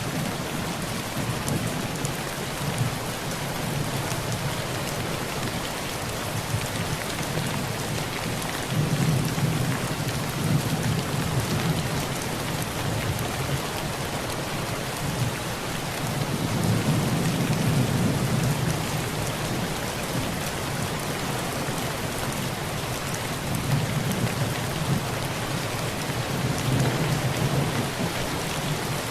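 Heavy rain falling steadily on a tin roof, an even hiss, with low rolls of thunder swelling up about a third of the way in, again past the middle, and near the end.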